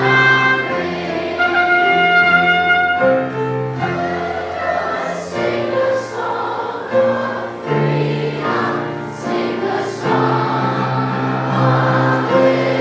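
A children's choir singing held, sustained notes over an instrumental accompaniment.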